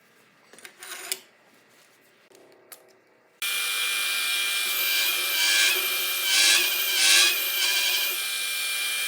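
Power drill running a countersink bit into metal: a steady motor whine with a harsh scraping cut that starts abruptly a few seconds in and swells twice, shaping the hole for a countersunk bolt head. Before it, a brief scrape and a small click.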